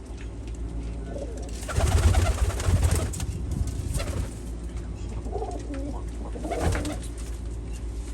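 Domestic pigeons cooing in short repeated calls, several times. About two seconds in there is a loud low rumble lasting over a second, over a steady low hum.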